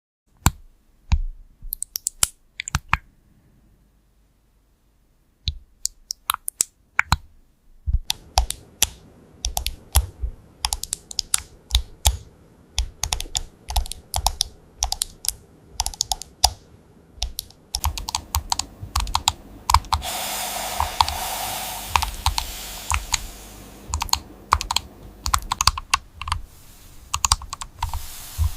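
Typing on a computer keyboard: sharp key clicks, a few scattered strokes and a short pause, then fast continuous typing. About two-thirds of the way through, a steady hiss sits under the keystrokes for a few seconds.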